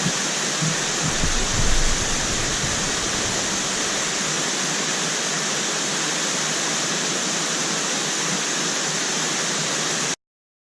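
Russell Falls waterfall, a steady rush of falling water. It cuts off abruptly about ten seconds in.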